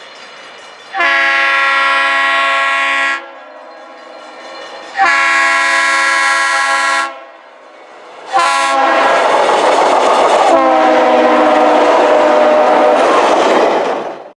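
Locomotive horn sounding the grade-crossing signal: two long blasts, one short, then a final long blast. Loud running noise from the passing train builds under the last blast.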